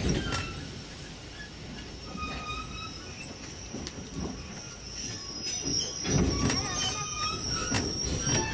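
Passenger train running along the rails, its wheels rumbling with irregular clunks. About halfway in, a steady high-pitched wheel squeal sets in and holds.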